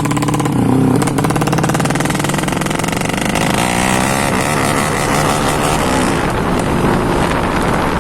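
Motorcycle engine, a Yamaha Jupiter single-cylinder four-stroke bored up to 200cc, running loudly. Its note dips and recovers about a second in, then runs rougher and less even.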